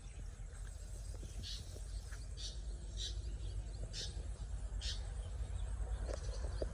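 Insects chirping outdoors in short high bursts, about once a second, over a steady low rumble.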